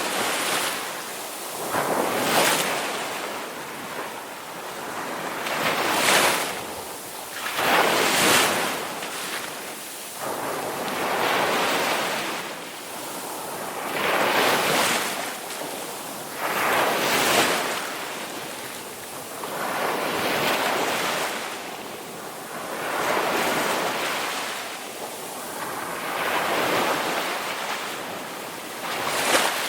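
Ocean waves breaking and washing on a shore, a steady hiss of surf that swells and falls every two to three seconds.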